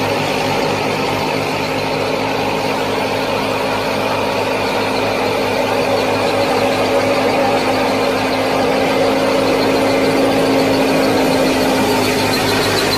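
Small motor of a miniature model farm machine running steadily, a continuous mechanical hum with a whine over it.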